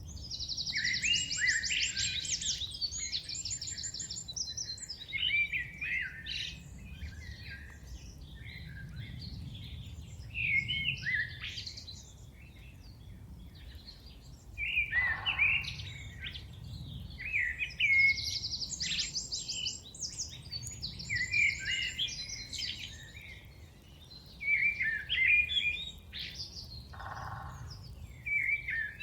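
A chorus of forest songbirds, thrushes among them, singing in separate phrases of varied whistles and fast high trills with short pauses between, over a steady low rumble.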